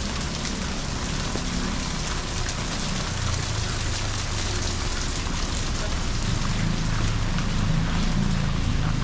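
Steady rain hissing, with scattered drops ticking close on the camera. A low rumble swells under it and grows louder toward the end.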